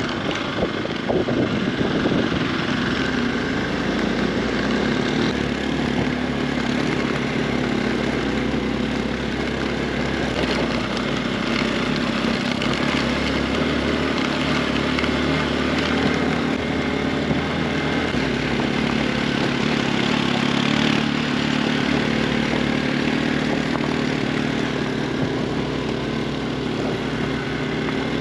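Motorcycle engine running steadily while riding, its pitch rising and falling a little, over a constant rush of wind and road noise.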